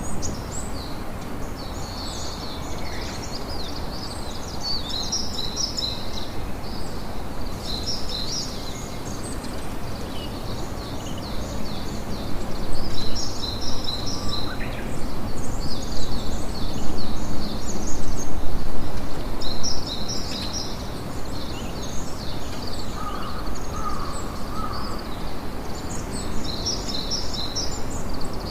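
Birds chirping in quick runs of high notes, over a steady low noise of a campfire ambience.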